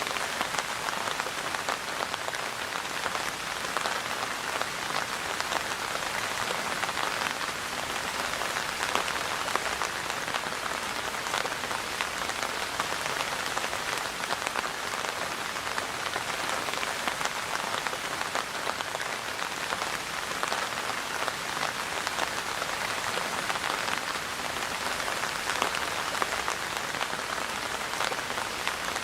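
Steady rain falling, an even hiss of many small drops with no breaks or thunder.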